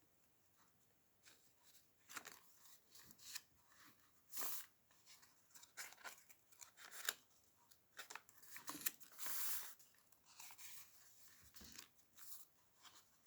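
Faint rustling and crinkling of paper as the pages of a handmade junk journal are turned and handled, in scattered short swishes, the loudest about four and a half seconds in and again around nine seconds.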